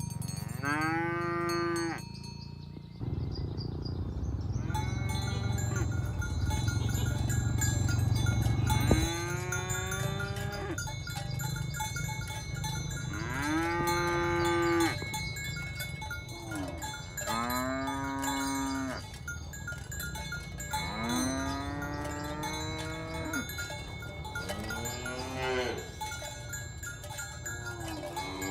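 Village cattle mooing again and again, about seven long calls a few seconds apart, each rising and then falling in pitch. Steady ringing tones sit underneath, and a low rumble fills the first third.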